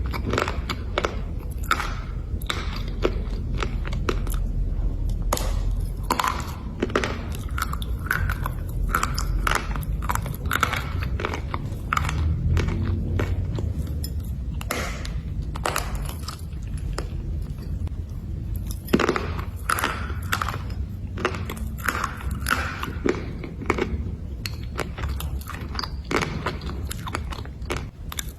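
A person biting and chewing pieces of black slate: a dense run of sharp, dry crunches, several a second, with one louder crack about two-thirds of the way through.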